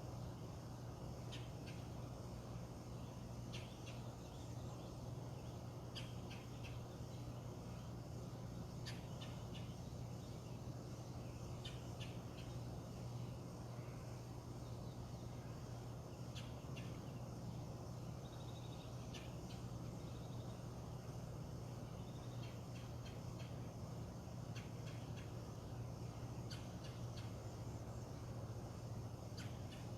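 Scattered short bird calls and chirps over a steady low hum.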